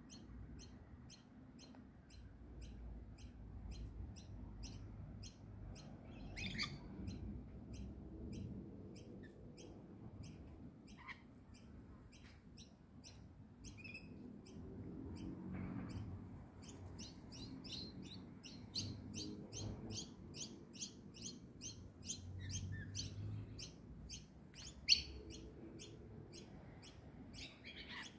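A bird chirping steadily, short high chirps repeated about three a second, coming thicker in the second half, with a few louder calls on top and a faint low rumble underneath.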